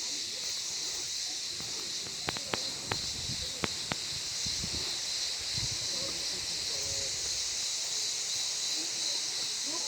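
Steady high-pitched hiss of a cicada chorus, with a few sharp clicks a couple of seconds in.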